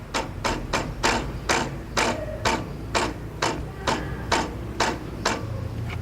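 Sharp knocks repeating evenly, about twice a second, over a low steady hum.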